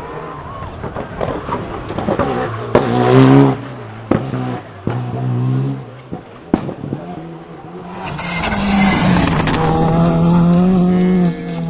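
Rally2 car's turbocharged four-cylinder engine revving hard and easing off, with several sharp cracks from the exhaust and tyre squeal on the tarmac. The engine gets louder and holds a steady high note from about two-thirds of the way in as the car comes close, then drops away suddenly near the end.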